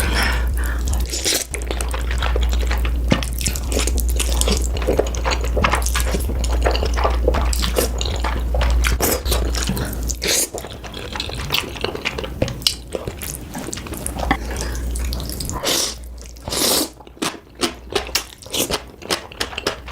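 Close-miked eating sounds: rapid wet chewing and crunching, a dense run of sharp clicks that thins to separate bites over the last few seconds, over a low hum for the first half.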